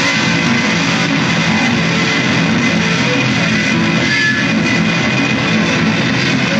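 Loud, steady guitar music playing without a break.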